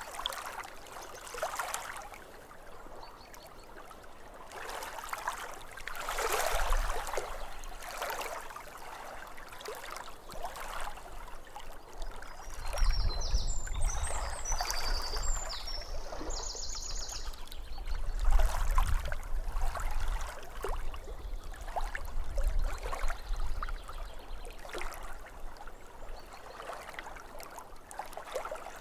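Small waves lapping at a lake shore in irregular splashing swells, with a low rumble underneath through the middle stretch. A bird chirps briefly about halfway through.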